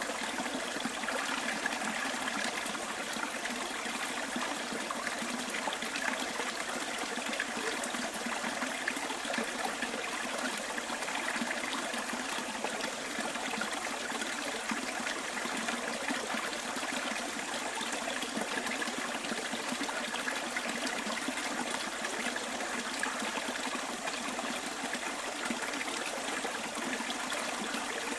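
Small bush stream flowing and trickling, a steady, even rush of water with no change.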